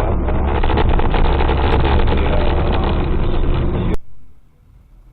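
A car on the move: loud, rumbling road and engine noise with rattles, which cuts off suddenly about four seconds in.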